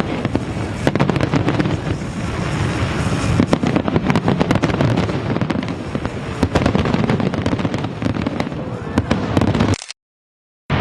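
Aerial fireworks display: a dense, continuous barrage of bangs and crackling over a rumbling background. The sound cuts off abruptly into dead silence about a second before the end.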